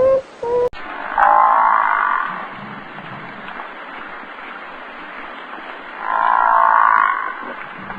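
An animal calling twice, two loud rough calls about five seconds apart, over a steady background hiss; a shorter pitched call from the previous clip is cut off less than a second in.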